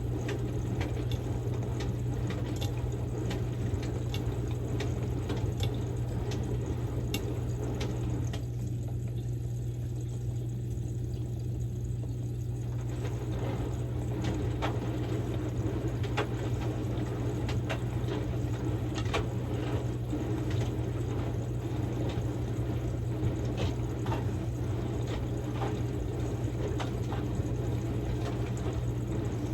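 Samsung Grande washing machine running its quick-wash course with a padded jacket inside: water pouring and sloshing in the drum over a steady low hum, with many small clicks. The water noise thins out for about four seconds partway through, then returns.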